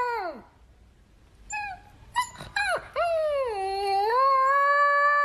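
A pet's long, wavering howls: one call falls away just after the start, short broken yips follow, then a long howl rises about three seconds in and is held.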